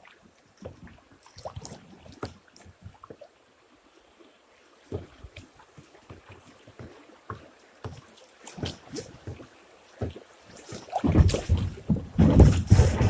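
A kayak moving down a shallow river: scattered paddle splashes and knocks against the hull, then a loud rumbling rush of water and wind on the microphone about two seconds before the end.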